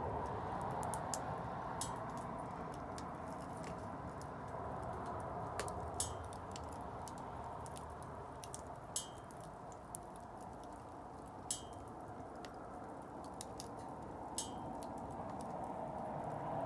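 Wood bonfire burning: a steady low rush of flame with irregular sharp crackles and pops from the burning wood.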